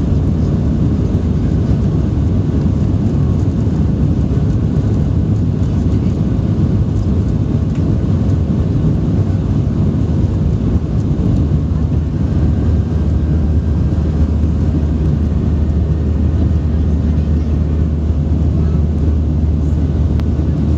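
Boeing 737 jet engines running steadily after take-off: a loud, even low rumble with a faint steady hum, the rumble deepening slightly about twelve seconds in.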